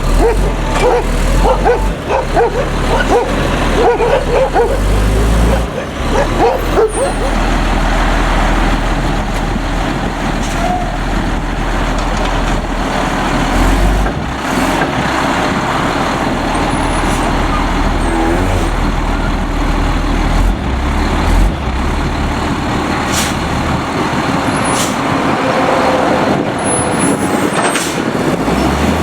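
Autocar front-load garbage truck running loud and steady, its engine's deep rumble filling the whole stretch, with a few short sharp sounds over it.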